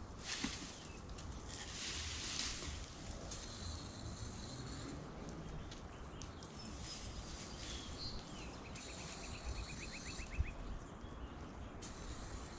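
Faint outdoor ambience: a low rumble and hiss, with a few short bird chirps and a quick run of small ticks near the end.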